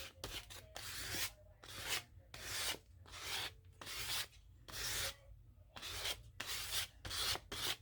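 Scissors cutting through magazine paper in a steady run of short snipping strokes, a little under two a second.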